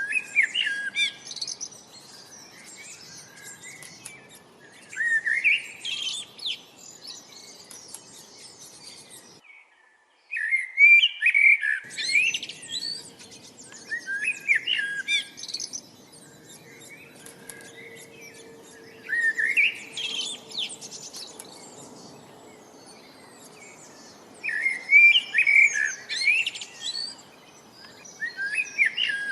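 Songbird singing short phrases of chirps and rising notes, one phrase every four to five seconds. A faint steady background hiss lies underneath, and the sound briefly cuts out completely about a third of the way through.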